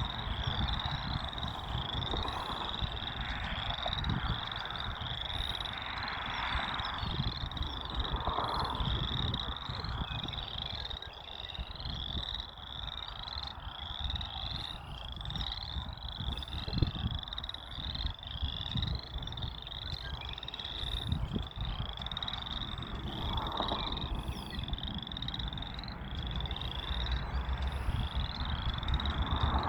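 A chorus of frogs calling: a steady run of short, high, rising creaks, several a second, over a low rumble that builds near the end.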